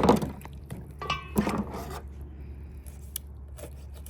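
Raw chicken being cut to trim off fat: a loud handling noise at the start, then scraping cuts and a few sharp clicks.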